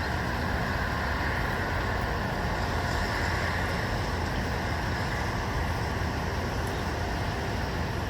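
Steady ambient noise, a low rumble with an even hiss and no distinct events, like the hum of distant road traffic.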